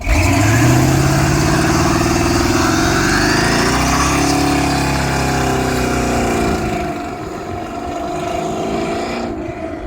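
A mini bike's small engine running under throttle, its pitch climbing and then falling away, dropping in loudness about six and a half seconds in.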